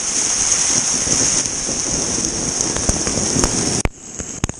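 Steady hiss of splashing, spraying water that cuts off abruptly near the end, followed by a few short clicks.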